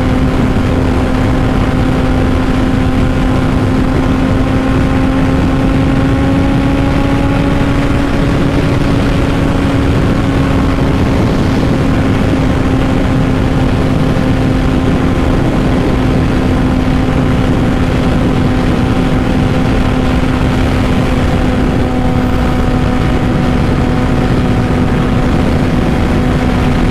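A 2005 Honda CBR600RR's inline-four engine, fitted with a Two Brothers full exhaust, running at a steady cruising speed: an even, high drone that barely changes pitch. Wind rushes over the rider's helmet microphone.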